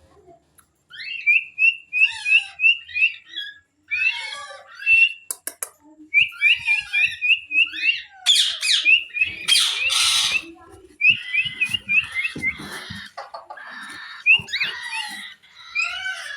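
Group of pet parrots calling: runs of short, quick repeated chirps, with harsh squawks that are loudest around the middle.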